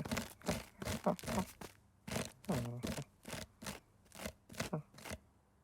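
Cartoon sound effects: a quick run of short crunching, tearing noises, with a brief mewing cry about two and a half seconds in.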